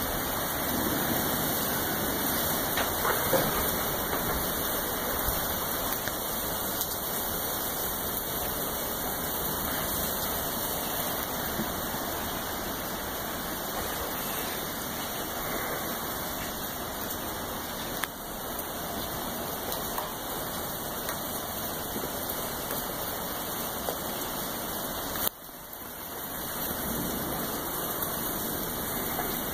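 Heavy thunderstorm rain falling steadily, a dense even hiss, with a click and a brief sudden drop in sound near the end.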